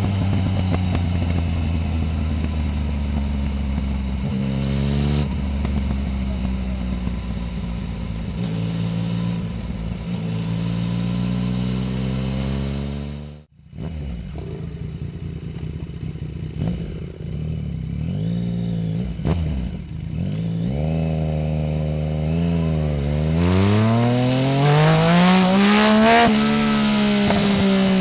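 Yamaha Tracer 900 GT's 847 cc inline-three engine running through a full Roads Italia aftermarket exhaust while riding: steady cruising with a gear change a few seconds in and a brief cut-out about halfway. Near the end the revs climb hard, dip once at a shift, and climb again.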